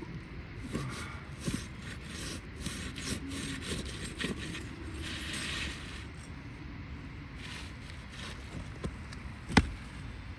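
Scraping and rubbing as asphalt roof shingles are handled and lifted, with one sharp click near the end.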